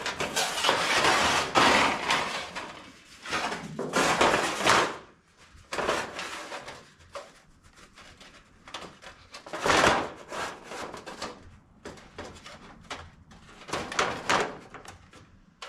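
A sheet of material being handled and positioned over a wooden door, with irregular rustling and scraping for the first few seconds. A few separate short scrapes or knocks follow later.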